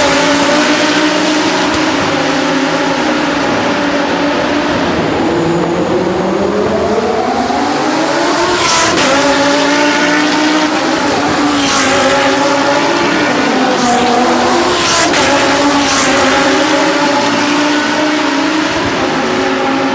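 Lamborghini Super Trofeo race cars' V10 engines at racing speed, the pitch climbing hard through the revs, then dropping back at gear changes. Short sharp cracks come at several of the shifts.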